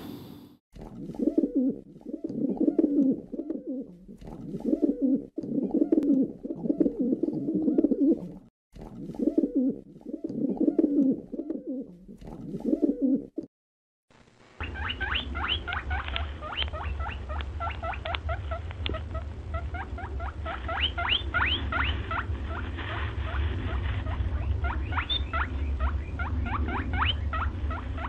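About seven rough, low bursts, each roughly a second long, with short breaks between them. Then, after a brief gap, small birds chirp in quick, high, repeated notes over a low steady rumble.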